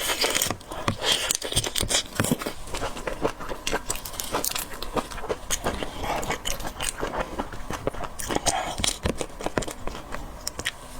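Close-miked eating sounds: wet chewing and mouth clicks, a dense run of small smacks and crackles throughout.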